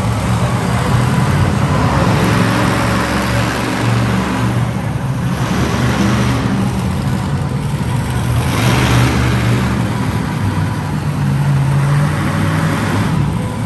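Heavy vehicle engine running steadily, with a low hum and swells of louder noise several times.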